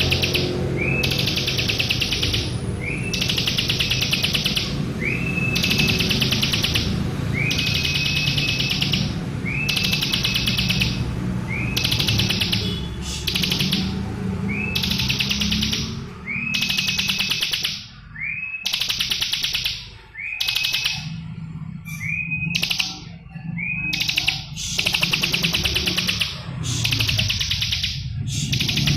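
Bar-winged prinia (ciblek) singing, repeating a fast buzzy trill phrase about every second and a half, each phrase closing on a short clear note. The phrases come more broken and irregular in the middle, with a low steady hum underneath.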